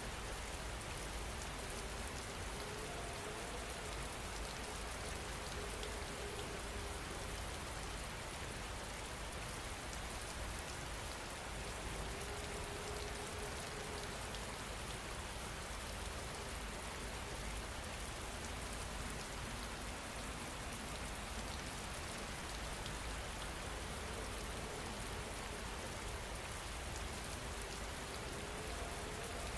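Steady rain falling, an even hiss with no lulls or bursts.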